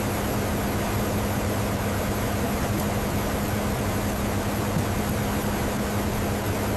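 Steady engine drone and rushing air inside a transport plane's cabin, with a constant low hum.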